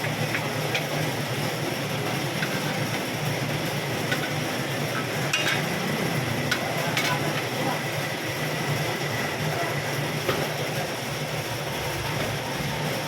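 A machine running steadily with a constant low hum and a noisy hiss, with a few short light clicks scattered through it.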